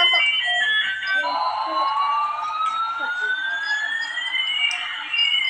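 Electronic siren-like sound effect from a battery-powered toy airplane: after a few stepped beeping notes, two smooth tones glide slowly, one rising and one falling, until they meet near the end.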